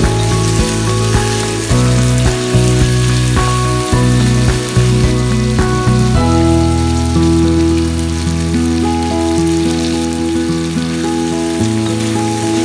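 Chicken pieces sizzling as they fry in a wok, under instrumental background music. The music's low notes are the loudest part; they change about twice a second, then are held longer from about halfway through.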